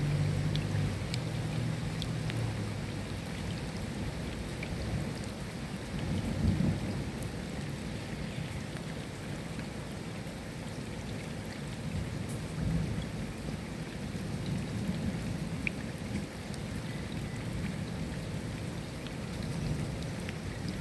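Steady rain with scattered sharp drops, and low thunder rumbling at the start and again, loudest, about six seconds in.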